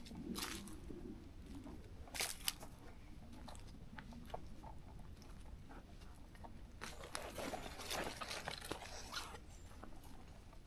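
Footsteps crunching on a forest trail, with twigs and leaf litter crackling underfoot at an uneven pace. Two sharp snaps about two seconds in are the loudest, and a denser run of crunching comes about seven to nine seconds in.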